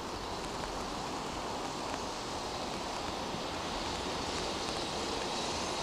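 A freight train hauled by an EH500 electric locomotive approaching, its rumble growing slowly louder over a steady hiss of rain.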